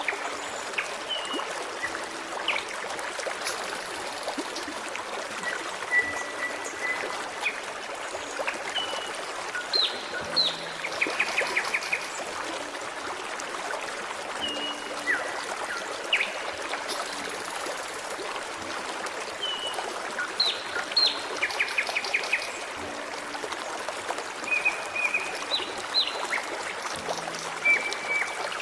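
Forest stream running steadily, with songbirds calling over it: scattered short whistled notes and quick sweeping calls, and a rapid trill twice.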